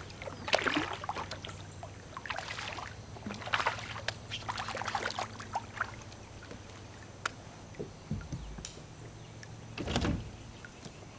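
Sounds of handling a fish in a kayak: irregular swishes and scrapes, then a dull knock on the hull about eight seconds in and a louder one near the end.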